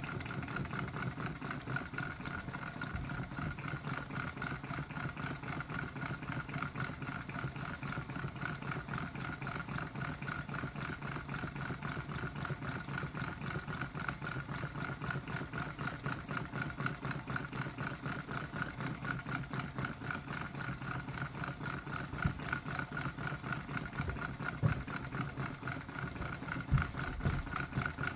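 3D-printed Stirling engine with a water-cooled piston running steadily at speed: a fast, even mechanical clatter with a steady tone over it. A few louder knocks come in over the last few seconds.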